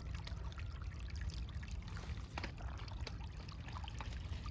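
A small stream of water trickling and running steadily, over a steady low rumble.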